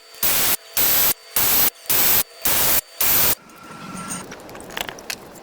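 Six short, loud bursts of static-like hiss in a steady rhythm, about two a second, each starting and stopping abruptly. They end a little past halfway, leaving a few faint clicks.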